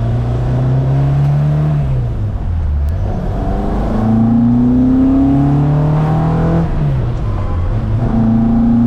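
1975 Ford Escort Mk1 rally car's four-cylinder engine on twin Weber carburettors accelerating hard through the gears. The engine note rises, drops at a gear change about two seconds in, climbs again and drops at a second shift near seven seconds, then pulls up once more.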